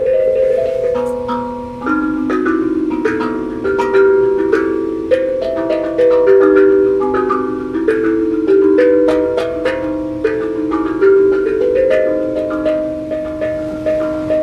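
A tuned percussion instrument struck in a melodic run, its notes ringing on and overlapping at about two to three strikes a second.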